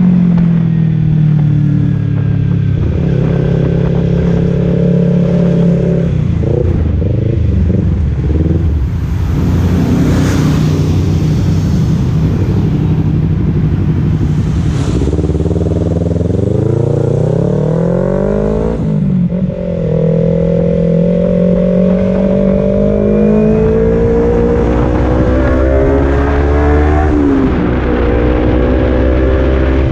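Kawasaki Z250's parallel-twin engine through a Leovince Cobra aftermarket exhaust, under way. The engine speed swells and eases, climbing steadily in pitch and then dropping sharply twice, as at upshifts.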